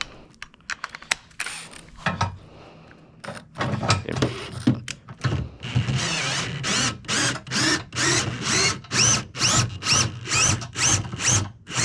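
Cordless drill run in a quick series of short trigger pulses, about two a second, each spin-up rising in pitch, after a few handling clicks in the first couple of seconds.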